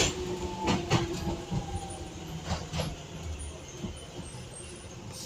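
Docklands Light Railway electric train running, heard from inside the carriage: a low rumble with a few clacks of the wheels over rail joints and a faint motor whine falling slowly in pitch as the train slows for the next stop.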